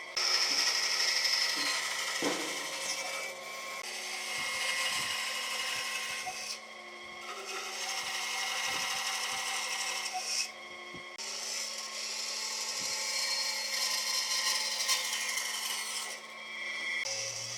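A power tool working wood, running in long passes with brief dips about a third of the way in, after about two-thirds, and again near the end.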